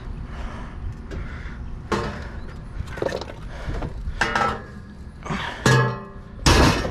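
A series of knocks, clanks and scrapes from junk and scrap being handled, getting louder toward the end, over a steady low rumble.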